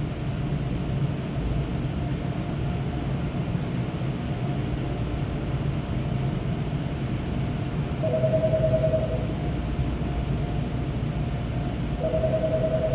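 Steady low rumble and fan-like hum heard inside a minivan's cabin, with a brief two-note tone sounding twice, about eight and twelve seconds in.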